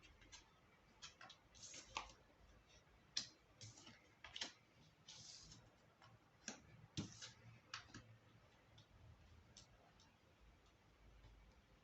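Faint, irregular clicks and a few brief swishes of tarot cards being handled, shuffled and laid down.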